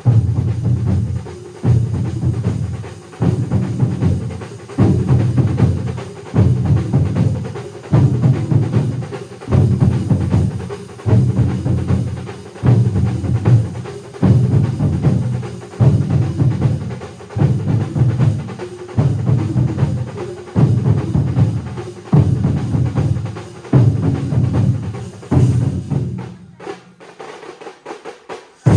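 A large drum ensemble plays a driving rhythm that swells in repeated surges about every second and a half. The drumming thins out near the end and closes with a single sharp stroke.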